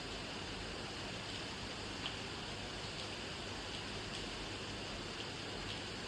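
Steady rain falling, an even hiss with a few scattered louder drop ticks, the sharpest about two seconds in.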